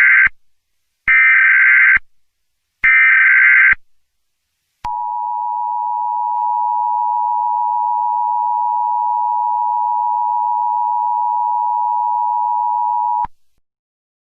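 Emergency Alert System SAME header: three bursts of screeching digital data tones, each about a second long, the first already under way. Then the EAS two-tone attention signal, held steady for about eight seconds and cut off suddenly, announcing an alert message.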